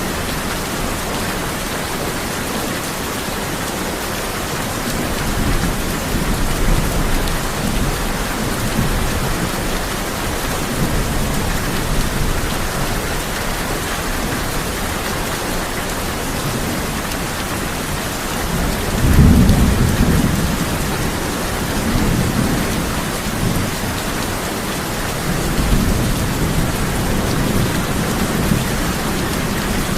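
Steady heavy rain drumming on a tin roof, with low rolling thunder swelling several times. The loudest rumble comes about two-thirds of the way through.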